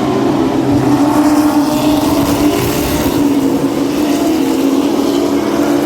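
Race cars' engines running on the track: a loud, steady engine drone holding one pitch.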